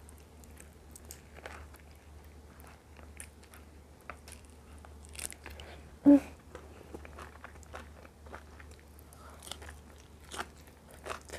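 A person eating close to the microphone: biting and chewing chicken neck with rice, with many small crunches and mouth clicks. About six seconds in there is a short, loud pitched sound.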